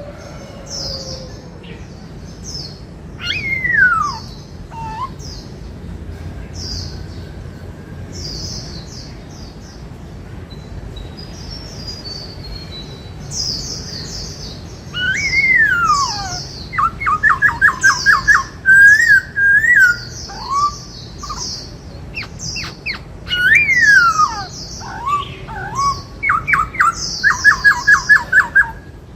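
Black-throated laughingthrush singing a loud, varied song: bright falling whistled slides, rapid rattling trills and quick series of very high chirps. The song comes in spells with short quieter gaps.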